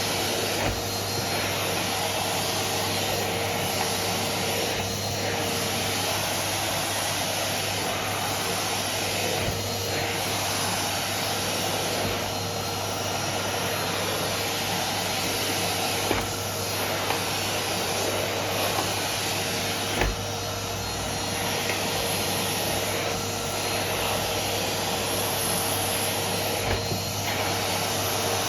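Vacuum cleaner running steadily, with a constant hum under the airflow noise and a few short knocks and bumps as it is pushed about.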